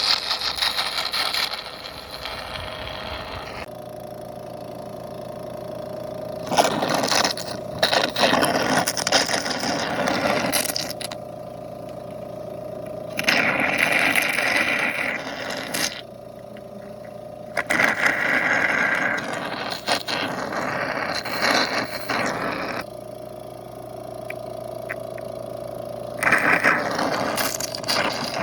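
Honey suction device at work in a Tiúba stingless-bee hive: a steady hum, broken about six times by loud noisy rushes of a few seconds each as honey and air are drawn up out of the honey pots.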